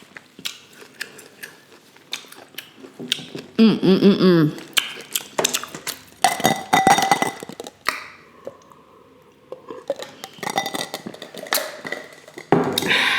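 Close-miked eating of a seafood boil: chewing and wet mouth sounds with scattered clicks and clinks of cutlery and dishes. A brief hummed voice sound about four seconds in, and another near the end.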